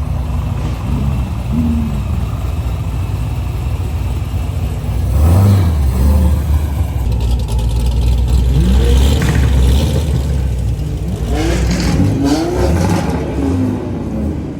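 Car engine running loudly, revved up and down a few times, with rises in pitch about five seconds in and again around eleven to thirteen seconds.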